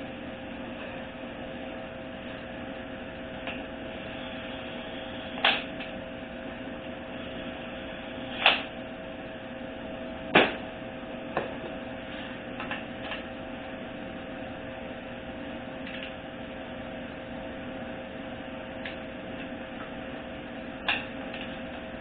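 A torque wrench set to 27 foot-pounds clicking a handful of times as bolts reach torque, sharp metallic clicks spread irregularly. Under it runs a steady electrical hum.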